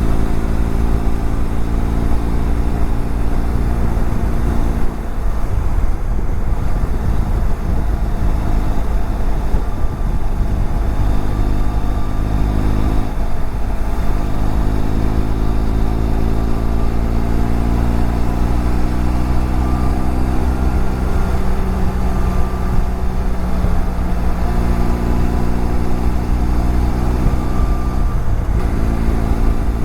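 BMW F700GS parallel-twin engine running at road speed, heard with wind rush on a helmet-mounted microphone. The engine note breaks and climbs again about four times.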